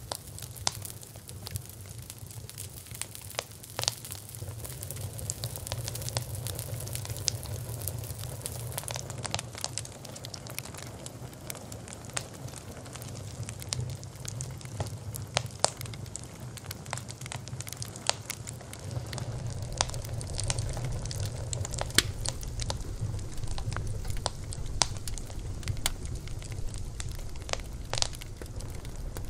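Wood fire burning with a low steady rumble and irregular sharp crackles and pops.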